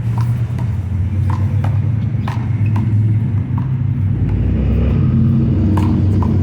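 Steady low rumble with a string of sharp slaps from a handball being struck by hand and bouncing off the wall and court during a one-wall handball rally; the rumble gets heavier about four seconds in.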